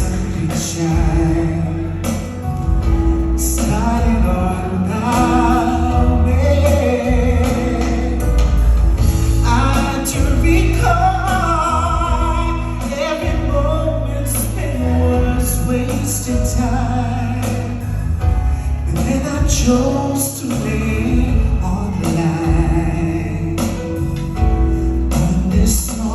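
Slow love song sung over instrumental accompaniment with a steady bass line and drums.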